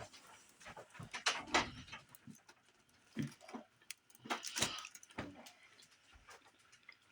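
Chewing and mouth sounds of a person eating, coming in short irregular bursts with scattered clicks.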